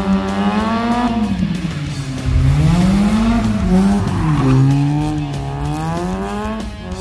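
Mazda RX-7 FC's rotary engine revving up and down repeatedly as the car drifts, with tyre squeal, loudest in the middle.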